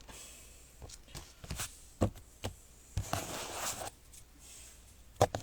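Handling noise from Pokémon booster packs being picked up and moved: a series of light taps and knocks about every half second, a short rustle around three seconds in, and two sharper knocks near the end.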